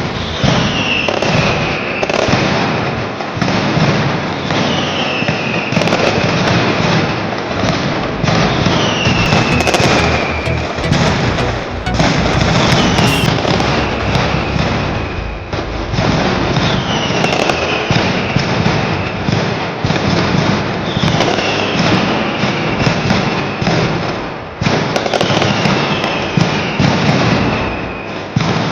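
Street fireworks and bangers going off in a continuous rapid crackle of sharp bangs, loud throughout. A short falling whistle repeats about every four seconds over the crackling.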